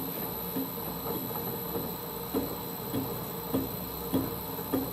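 Holbrook C8 toolroom lathe running at low spindle speed while a parting-off blade cuts, with a short click repeating about every 0.6 seconds over a steady machine hum and a faint high whine.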